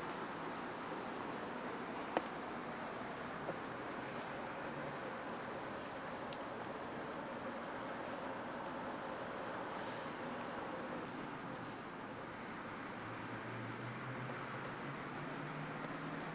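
Insects trilling in a steady high buzz that becomes a fast, even pulsing about eleven seconds in, over a constant background hiss. A single sharp click comes about two seconds in.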